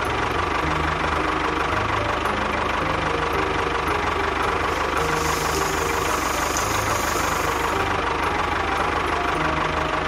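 Tractor engine running steadily with a low knocking chug. From about five to eight seconds in, a hiss of sand pours down over it.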